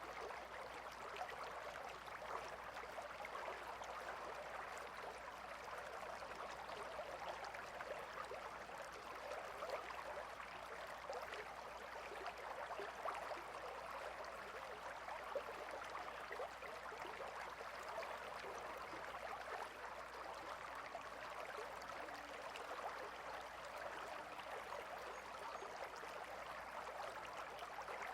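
Gentle river flowing, a steady, even babble of water with many small splashes and ripples.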